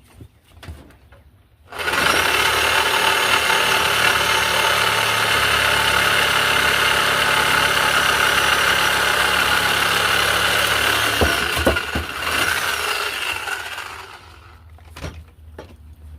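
A loud motor-driven machine running: it starts abruptly about two seconds in, a faint whine climbs as it spins up, and it winds down and fades near the end, with a few sharp knocks just before.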